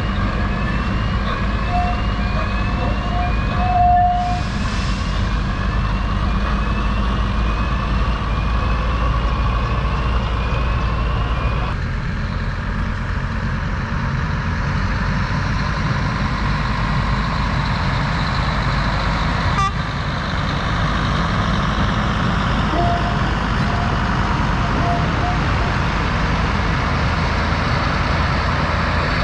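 A heavy railway vehicle's engine running steadily, with a repeating rising electronic chirp a little over once a second for the first twelve seconds or so. A brief steady tone is heard around four seconds in and again near the end.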